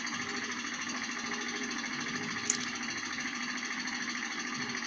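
An engine running steadily with a rapid, even mechanical chatter, with one short tick about two and a half seconds in.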